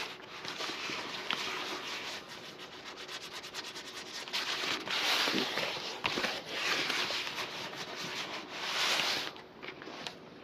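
A leather shoe being rubbed during a shoe shine: a continuous hiss of rubbing strokes, growing louder in several long swells from about halfway through and dropping off near the end.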